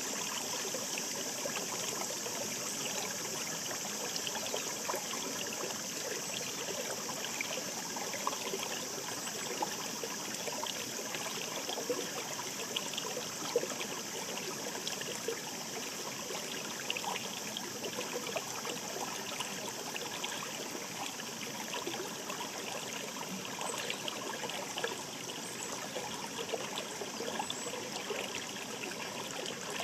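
Shallow mountain stream babbling steadily, a constant wash of water with small trickling flecks through it.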